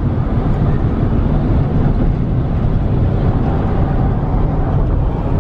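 Steady road and engine noise of a moving car heard from inside the cabin, mostly a low rumble.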